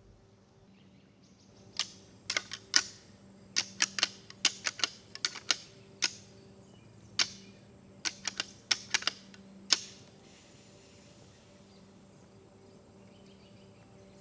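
A quick, irregular run of about twenty sharp clicks or ticks over some eight seconds, over a faint steady low hum.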